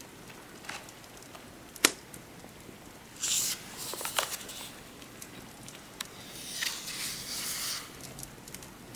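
Paper book pages being turned, two rustling sweeps about three seconds and six and a half seconds in. They sit over a steady rainy-day fireplace ambience, with a sharp crackle a little before two seconds in and smaller pops between.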